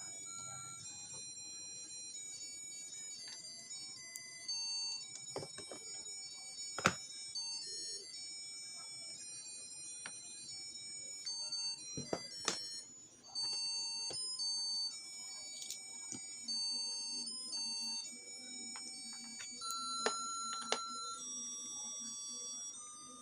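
Simple electronic melody of high, thin beeping tones stepping from note to note, like a music chip or alarm tune, with a few sharp clicks.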